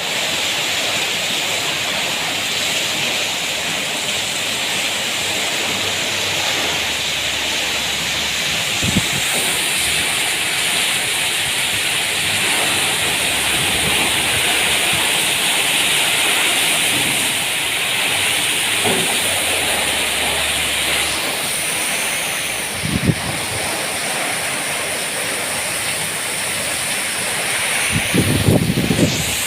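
Heavy rain pouring down in a steady, loud hiss, with a few brief low bumps of strong wind, the biggest near the end.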